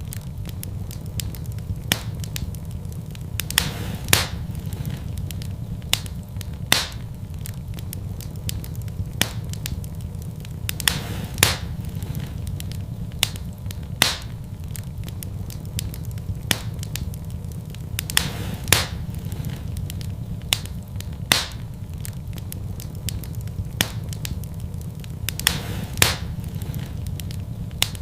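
Fireplace fire crackling: sharp pops every couple of seconds, some in quick pairs, over a steady low rumble of the flames.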